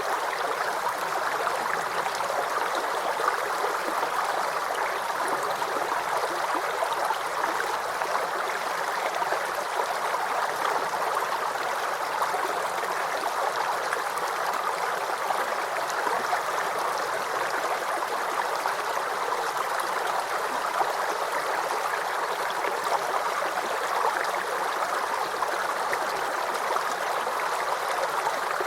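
Small brook babbling and gurgling over stones, a steady flow of water with fine trickling detail.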